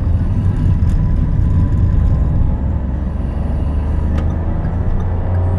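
In-cabin sound of a 2022 Daihatsu Rocky 1.2 manual's engine and tyres as the car accelerates, a steady low hum with road rumble. A single sharp click about four seconds in.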